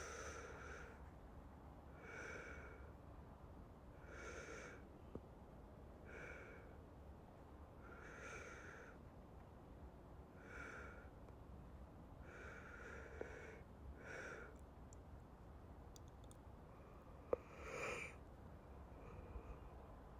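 A man's slow breathing close to the microphone, about one breath every two seconds. Near the end there is a sharp click, followed by a louder breath.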